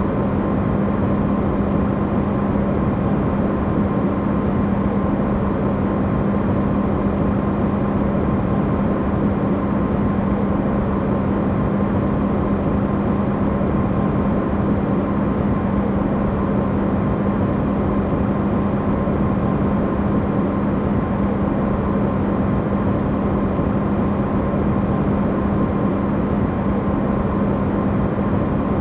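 Electrolux refrigerator running, recorded amplified: a steady, unchanging hum with a strong low drone and a fainter higher tone over an even rushing noise.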